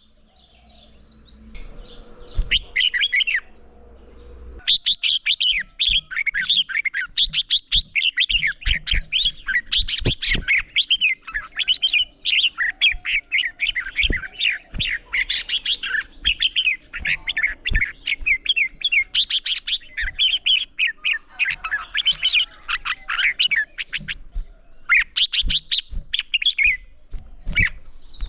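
Red-whiskered bulbuls singing in competition: a short phrase, then from about five seconds in a dense run of quick, bubbling whistled notes that carries on with only brief pauses.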